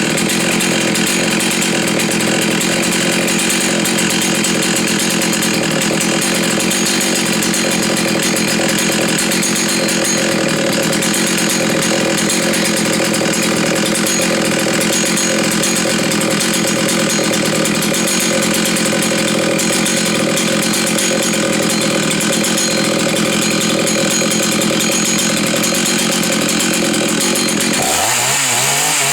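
Husqvarna 61 two-stroke chainsaw engine running at a high, steady speed. Near the end the pitch drops and wavers as the throttle comes off.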